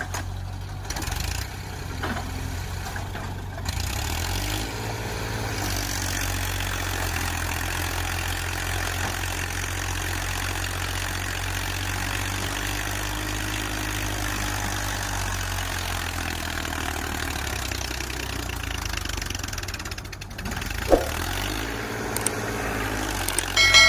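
Tractor diesel engine running steadily at low revs, rising in pitch briefly twice. There is a sharp knock near the end, then a short pitched tone right at the end.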